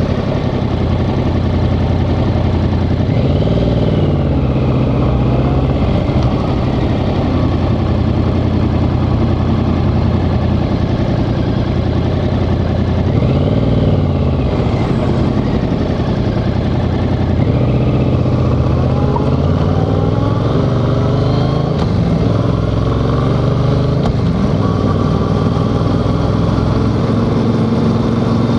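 Yamaha XSR700's parallel-twin engine running on the road, its pitch rising and falling several times as the throttle is worked.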